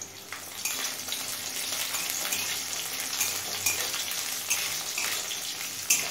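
Garlic cloves and green chillies sizzling steadily in hot mustard oil in a metal kadai, stirred with a spatula that now and then scrapes and taps against the pan.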